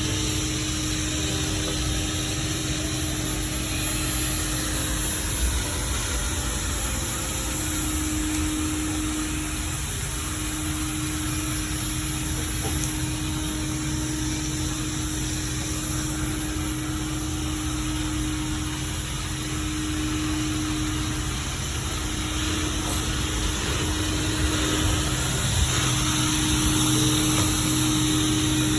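Xiaomi robot vacuum-mop running: a steady motor hum with an even suction hiss, its pitch wavering now and then.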